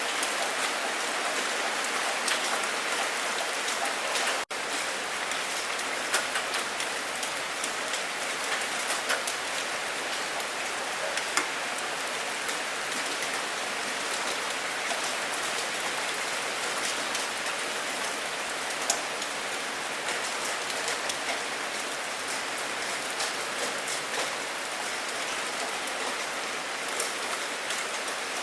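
Steady rain falling: an even hiss with many sharp drops ticking on a surface. The sound drops out for an instant about four seconds in.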